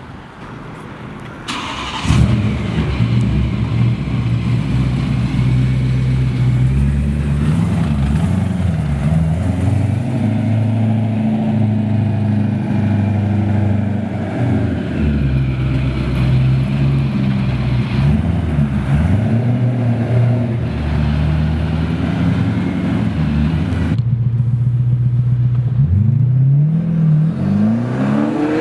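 Twin-turbo BMW S65 4.0-litre V8 in an E92 M3, starting up about a second and a half in, then idling with a few short revs. Near the end the engine revs up with a rising pitch.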